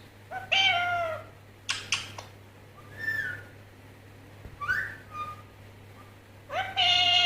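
Indian ringneck parrot calling: a drawn-out, bending call about half a second in, a few sharp clicks, short whistled notes, one falling and one rising, then another long drawn-out call near the end.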